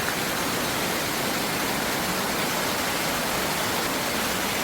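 Stream water rushing steadily, a constant even hiss.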